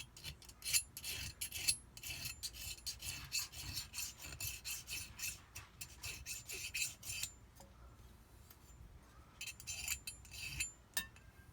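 Hand file rasping back and forth along the edge of a metal jet-ski impeller blade, taking off the burrs left when the loose impeller rattled in the pump housing. A run of quick strokes, a pause of about two seconds, then a few more strokes.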